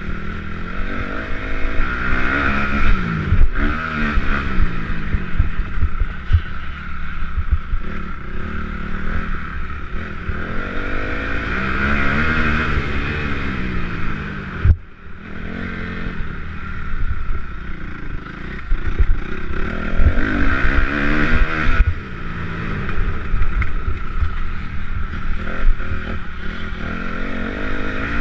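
Motocross bikes racing past, engines revving up and falling away in repeated waves as riders go by. The sound cuts out briefly about fifteen seconds in.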